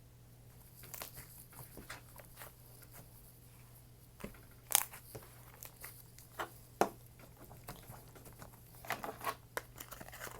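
Slime being handled at close range: scattered soft clicks, pops and crackles, the sharpest about five and seven seconds in and a cluster near nine seconds, over a faint steady hum.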